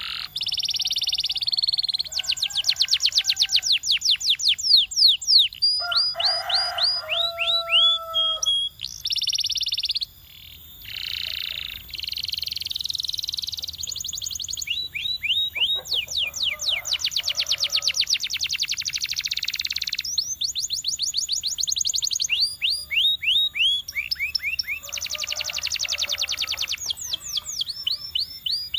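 Domestic canary singing a long, continuous song. It is made of high-pitched runs of rapid repeated falling notes, broken by buzzy rolls, a few lower notes and one short pause about ten seconds in.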